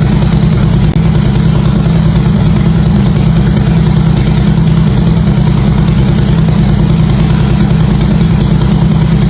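Harley-Davidson V-twin motorcycle engine idling steadily through its exhaust, with no revving.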